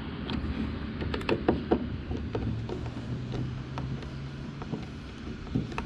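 Scattered light clicks and taps of hand tools and screws as a fuel petcock is screwed onto a dirt bike's tank, over a steady low hum that fades out near the end.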